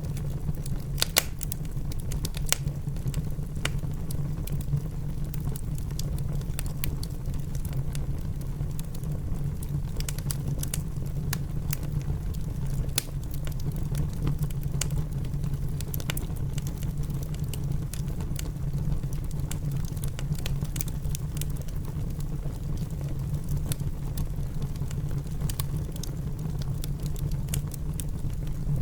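Wood fire crackling in a fireplace, with irregular sharp pops scattered through, over a steady low rush of rain.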